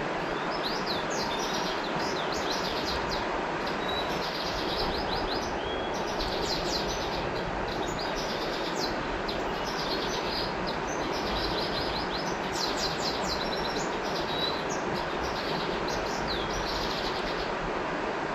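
River water flowing with a steady rush, while birds chirp over it in quick runs of short, high notes, with a few brief whistles between them.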